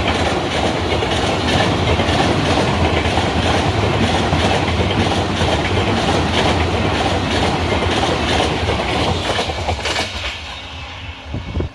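Passenger train running past, its wheels clattering steadily over the rail joints. The noise fades away near the end as the train moves off.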